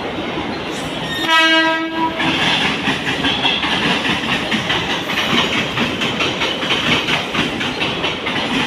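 A train sounds one short, steady horn note about a second in, then runs past with a continuous rumble and the clatter of its wheels over the rail joints.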